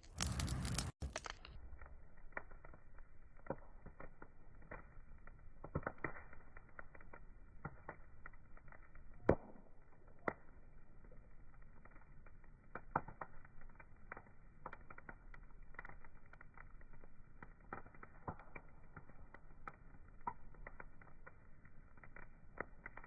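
Wood fire crackling, with irregular small pops and one sharper pop about nine seconds in. A brief, loud burst of noise fills the first second.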